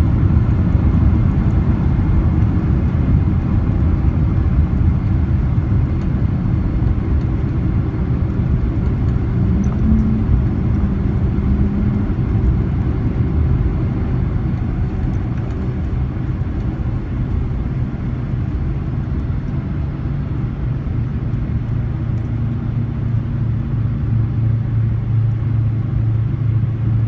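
Boeing 767 jet engines running with a loud, steady rumble during the landing run. The rumble slowly eases over most of the stretch, then a low steady hum grows firmer near the end.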